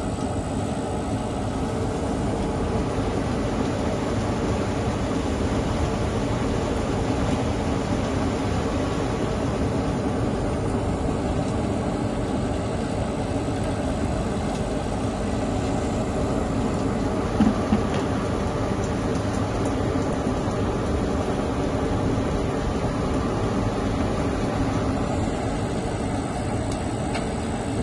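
Industrial rotary drum dryer running: a steady mechanical drone with a low hum. Two short knocks come about seventeen seconds in.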